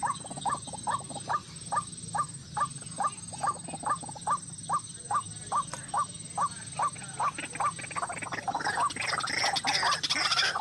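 White-breasted waterhen calling: a steady run of short repeated notes, about two and a half a second, turning into a busier jumble of overlapping calls in the last couple of seconds.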